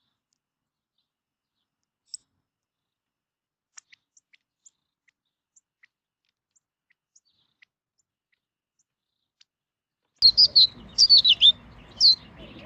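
Small songbirds: mostly near silence with a few faint high ticks and chirps, then about ten seconds in a quick run of loud, sharp, high chirps, many sweeping downward in pitch.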